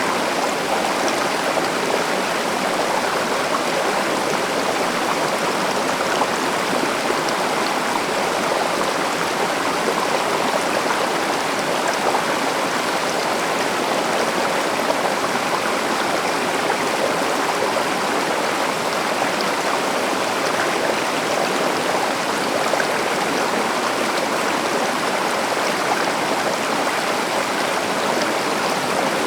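River water flowing and rushing over rocks in a steady, unbroken wash.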